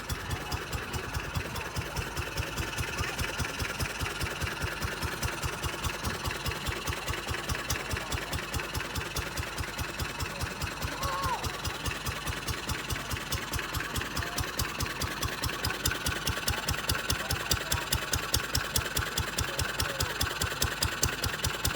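Restored 1965 Wolseley WD9 3 hp single-cylinder stationary engine running steadily, with an even, regular beat of firing strokes.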